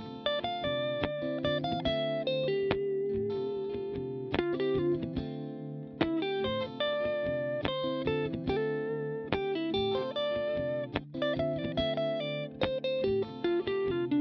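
Electric guitar picking quick single-note lines from a C major triad over a steady, sustained D minor backing chord, bringing out the 9th, 7th and 11th of the minor chord.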